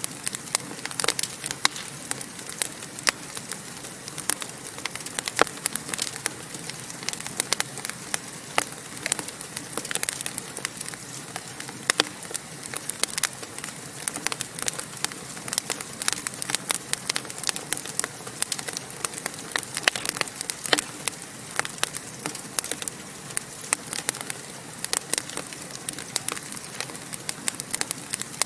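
Fire in a fireplace crackling steadily: a continuous stream of small pops and snaps over a soft hiss.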